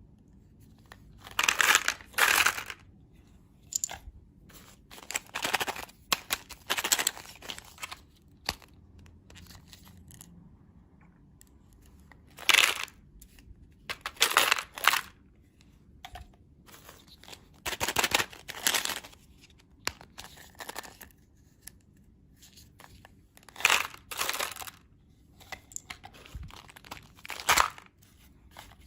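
Plastic candy wrappers crinkling and tearing in short, irregular bursts, a dozen or so, with quiet gaps between them.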